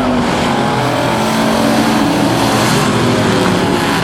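A pack of Thunder Truck race trucks running at speed around a speedway oval, several engines overlapping, their pitches rising and falling as they drive through the corners and down the straights.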